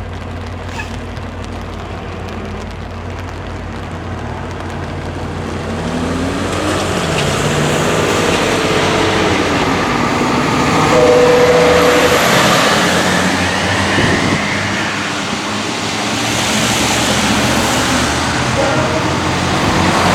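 A train passing close by: rushing, rumbling noise that builds up and is loudest about halfway through, with a short steady tone near the peak.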